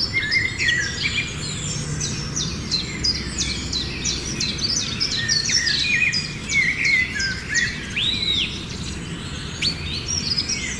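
A flock of birds chirping and calling together, many short sharp overlapping notes with a few longer swooping calls, over a low steady rumble of background noise.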